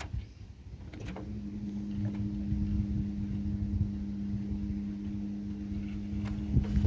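A small motor hums at one steady pitch over a low rumble, starting about a second in and cutting off abruptly near the end.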